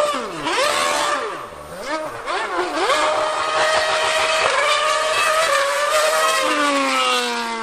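2013 Mercedes Formula One car's V8 revving very high. Its pitch swings sharply up and down through gear changes, holds a high note for a few seconds, then falls away near the end.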